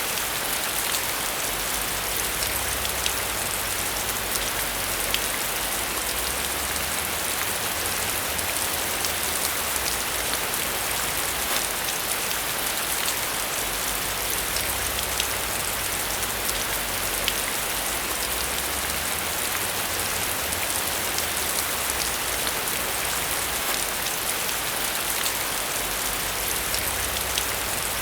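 Steady rain falling on a surface, a constant hiss with many small drops ticking through it.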